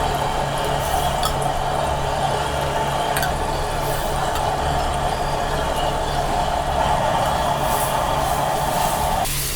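A steady whirring hum with a few light clinks, cutting off suddenly near the end.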